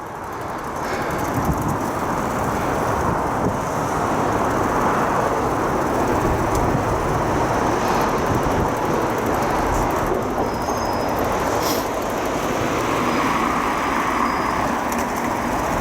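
Steady rushing noise of freeway traffic, holding even with no single vehicle standing out.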